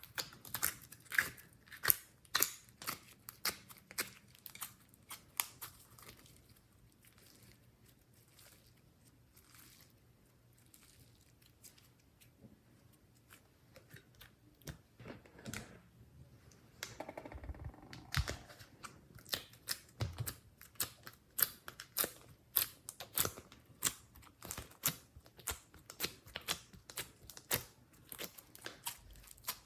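Slime being kneaded and stretched by hand, giving strings of sharp little clicks and pops. The clicks are dense at first, thin out for several seconds in the middle, then come back quickly.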